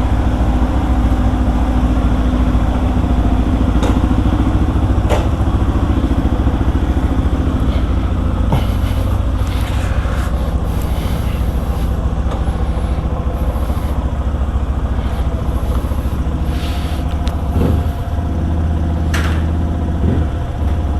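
Motorcycle engine running steadily while under way, with a few brief clicks. The engine note dips and changes pitch about 18 seconds in.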